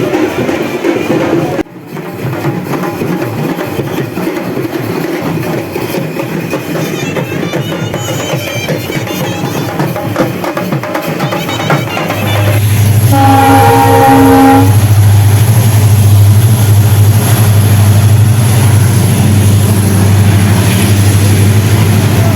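MEMU train horn sounding one blast of about a second and a half, over a steady low hum that starts just before it and carries on afterwards.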